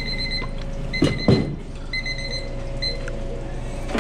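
An electronic kitchen alarm beeps in quick bursts of about four, repeating roughly once a second, over a steady hum of running kitchen equipment. Two sharp clanks about a second in are the loudest sounds.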